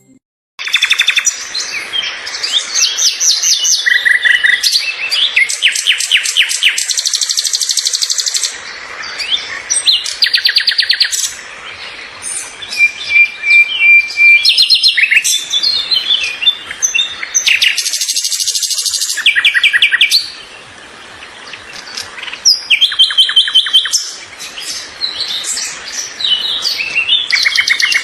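Several songbirds singing at once: overlapping fast trills, rapid runs of repeated notes and short whistled phrases. The song begins just under a second in, with a few brief lulls along the way.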